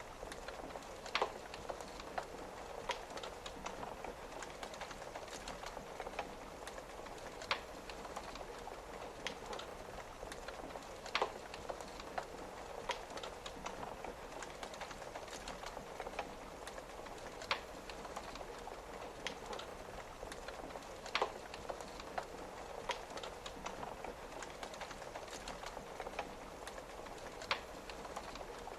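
Wood fire crackling, with light ticks and a few louder sharp pops every several seconds, over a steady hiss of rain on a window.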